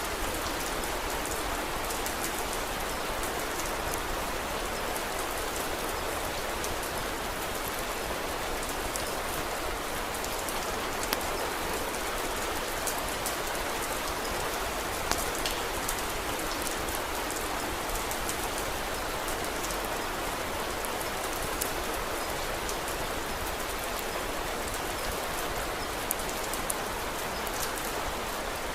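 Steady rain falling, a dense even patter, with a few sharp clicks scattered through it.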